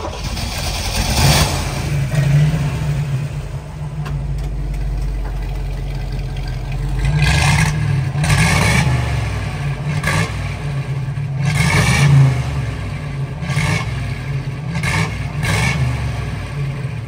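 1959 Chevrolet Corvette's 283 V8 running through its bumper-exit exhaust, idling steadily and then revved in a series of about eight short blips from roughly seven seconds in.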